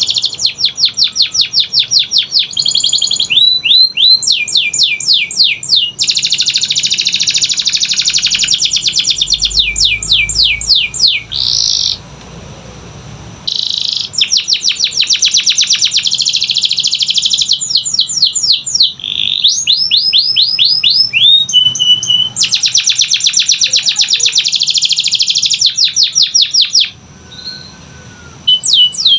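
Domestic canary singing: fast, high-pitched trills and rolls of rapidly repeated notes, broken by a short pause about twelve seconds in and another near the end.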